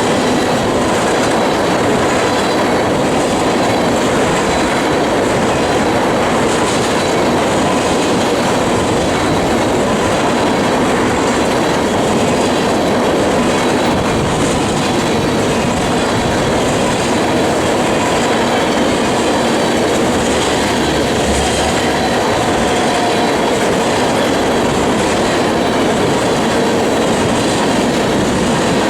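Freight train of loaded crude oil tank cars rolling past at close range. Steady wheel-on-rail noise with clickety-clack over the rail joints and a faint steady squeal from the wheels.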